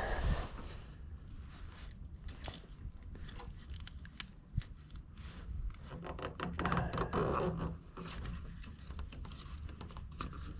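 Scattered small clicks, taps and scrapes of hands working at a tractor headlight's rubber boot and bulb housing, trying to free the bulb.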